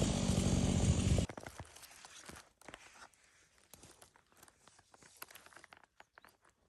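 Two-stroke chainsaw running steadily, then cutting off suddenly about a second in, followed by faint scattered clicks and crunches.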